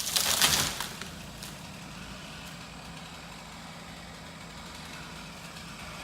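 A brief loud rush of crackling noise in the first second, then an engine idling steadily.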